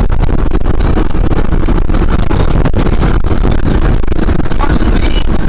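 Garbage truck engine running: a loud, steady low rumble.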